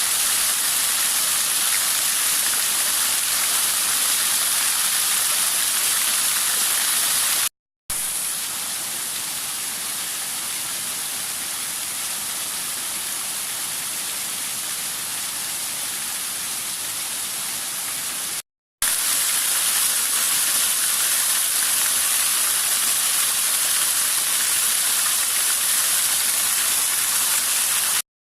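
Waterfall pouring into its plunge pool: a steady, loud rush of falling water. It cuts out twice for a split second where clips are joined, and the middle stretch is a little quieter.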